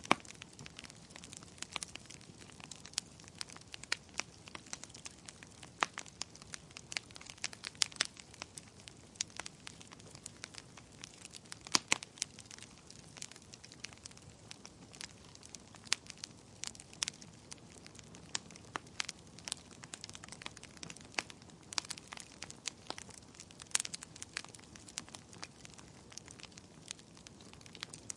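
Wood campfire crackling, with frequent irregular sharp pops and snaps over a soft steady hiss, a few pops louder than the rest.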